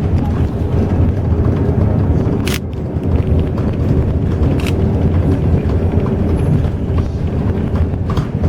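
Highway coach driving along the road, heard from inside the cabin: a steady low engine and road rumble with a faint steady hum above it, and three short sharp clicks or rattles.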